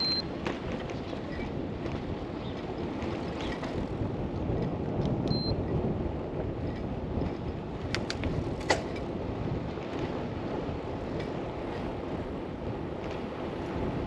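Steady rush of wind and road noise picked up while riding a bicycle. There are a few sharp clicks about eight seconds in, and two short high beeps: one at the start, another about five seconds in.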